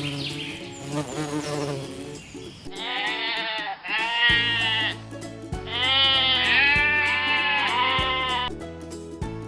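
A farm animal bleating: several long, wavering bleats starting about three seconds in, over background music.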